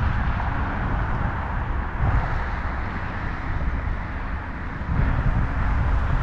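Wind buffeting the microphone during a bicycle ride: a fluctuating, rumbling rush with a faint steady hum joining about five seconds in.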